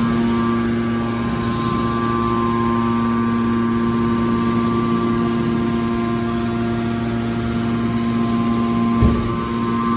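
Hydraulic scrap-metal baler's power unit running with a steady hum. A single thump comes about nine seconds in.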